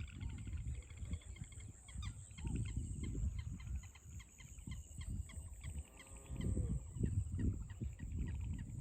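Several birds chirping and calling in quick repeated notes, with one longer fowl-like call about six seconds in, over a steady high hiss and a gusty low rumble.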